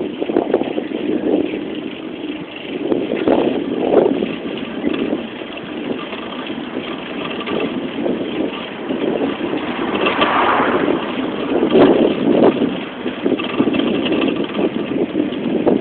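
Wind buffeting the microphone and rolling noise of a bike in motion, in uneven surges.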